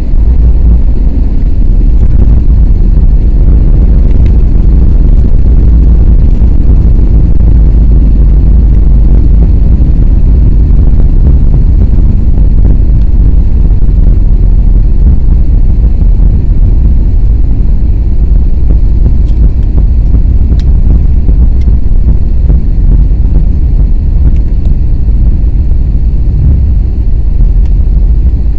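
Loud, steady low rumble inside the cabin of an Airbus A321neo. It jumps up sharply at the start and holds, fitting the airliner's landing roll on the runway.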